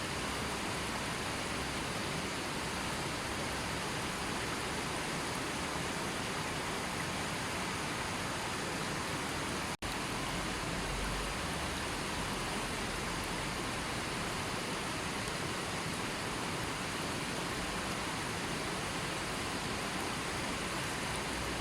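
Gentle river water flowing in a steady, even rush, with a split-second dropout about ten seconds in.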